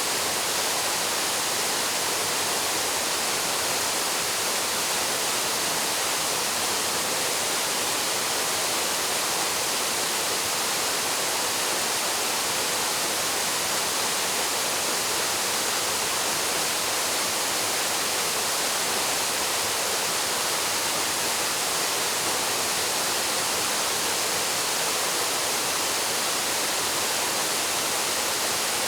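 Waterfall: water plunging steadily into a pool, an even, unbroken rush of white noise.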